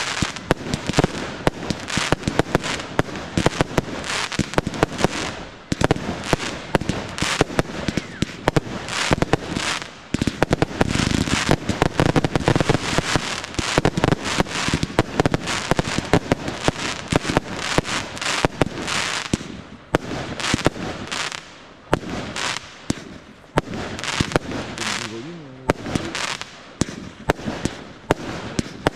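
Aerial fireworks display: a rapid, nearly unbroken barrage of shell bursts, with sharp bangs and cracks overlapping one another. There are a few brief lulls.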